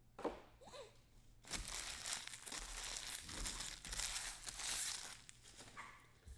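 Crinkling and tearing of trading-card pack wrappers, a dense crackle for about three and a half seconds starting about a second and a half in.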